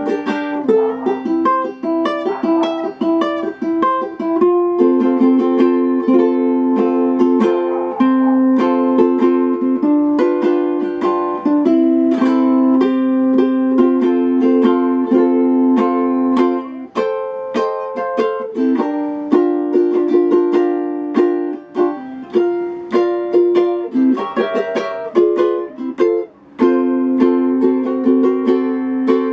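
Ukulele played solo, chords strummed with steady strokes and some picked notes, with no singing.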